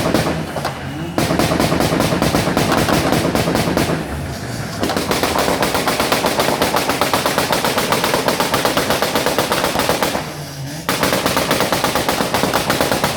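Car exhaust popping and banging on a two-step launch-control rev limiter: rapid strings of bangs, several a second, in long bursts with brief breaks about one, four and ten seconds in.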